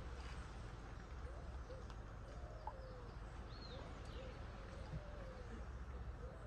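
Faint bird calls, short rising-and-falling notes one after another, over a low steady rumble.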